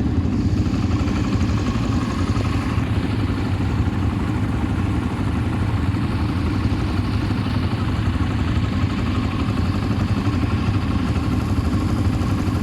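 ATV engine running steadily while riding, with an even, unbroken drone.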